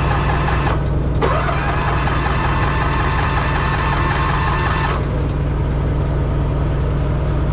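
Small gasoline pony motor running unevenly over a steady low engine hum. It cuts out about a second in and catches again, its pitch rising as it picks up. Its sound falls away about five seconds in, the sign of a motor that will not keep running.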